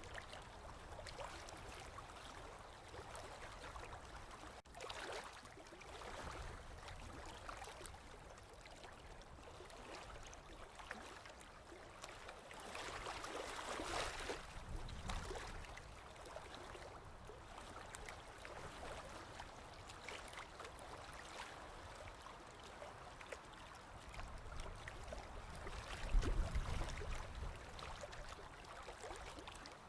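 Sea water washing and lapping, with small trickling and gurgling sounds; one wave swells up and dies away about halfway through, and a short low thump comes near the end.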